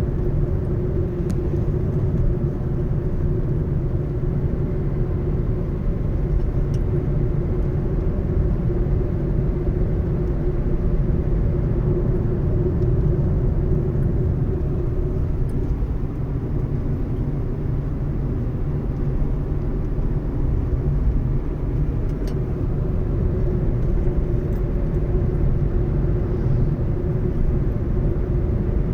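A car driving at a steady speed: a constant low rumble of engine and road noise with a steady hum and no change in pace.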